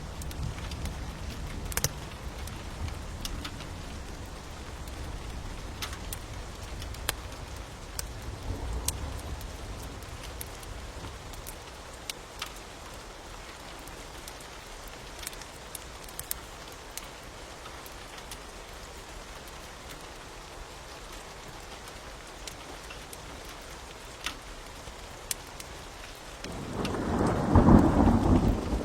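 Steady rain hiss with scattered sharp crackles and pops from a wood fire. Faint low rumbles of thunder come in the first ten seconds, and a loud rumble of thunder swells near the end for about two seconds.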